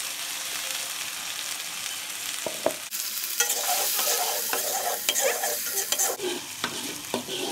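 Ground spice paste sizzling steadily in hot oil in a wok as it is sautéed until fragrant. From about three seconds in, a spatula scrapes and taps against the wok as the paste is stirred, and the sizzle grows louder.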